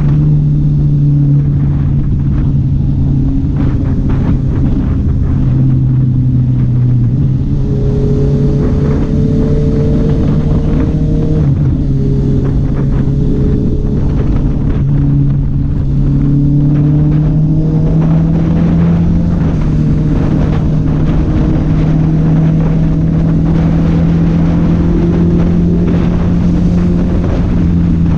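Honda CB650R's inline-four engine running steadily under way, its pitch holding fairly even with small rises and dips.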